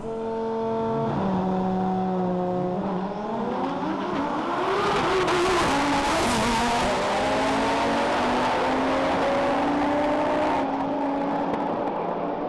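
Performance car engine running at a steady pitch, then accelerating hard with its pitch climbing. A loud rush of noise covers the middle of the run.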